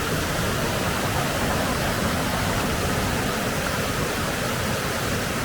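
Waterfall swollen with snow melt, a steady, loud rush of falling water.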